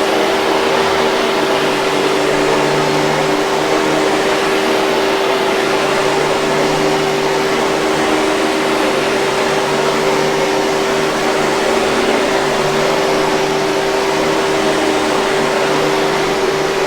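Hoover 5000 Series canister vacuum cleaner running steadily: a constant motor hum with a rushing airflow hiss, no change in pitch or level.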